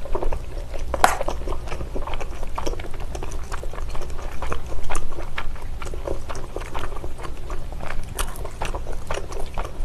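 A person chewing mouthfuls of spicy tteokbokki (chewy rice cakes and fish cake) close to the microphone: wet chewing with a steady patter of small clicks and crackles, one sharper click about a second in.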